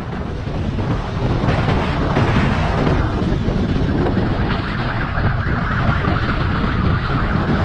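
Motorcycle running at speed with heavy wind rushing over the microphone, a dense, steady noise.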